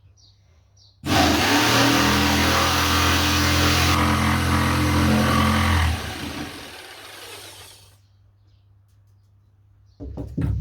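Fieldmann FDP 200712-E 710 W corded jigsaw starting abruptly about a second in and running steadily at one pitch for about five seconds. It is then switched off and winds down over a couple of seconds.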